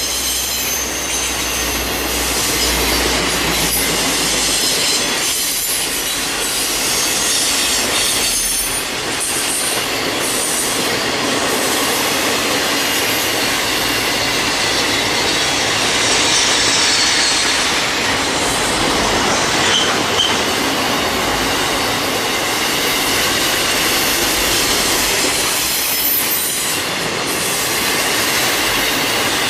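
Freight train cars rolling past on the rails in a steady, continuous rumble, with high metallic wheel squeal coming and going.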